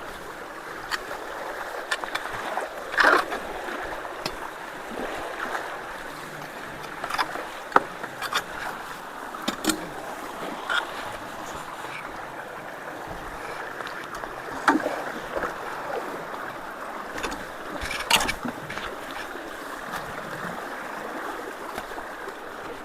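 Steady rush of rain-swollen water pouring through road culverts, with a few scattered sharp knocks and cracks over it.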